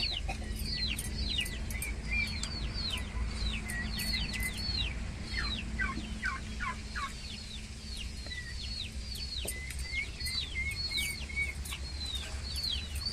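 Birds chirping: a rapid stream of short chirps that fall in pitch, several a second, over a low steady hum.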